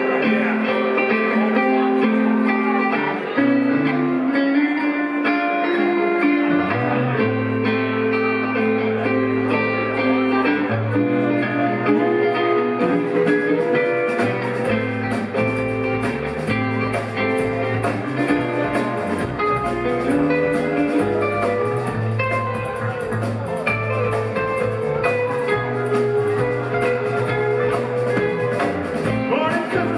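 Live rock band playing an electric guitar-led song. Guitar first, a bass line joining about seven seconds in, and cymbals coming in about halfway through.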